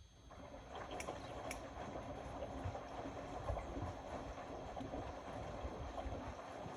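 Indesit Innex BWE 91496X washing machine in its wash cycle, with steady water noise and low rumbling from the drum that starts just after a quiet pause. A few light clicks come about a second in.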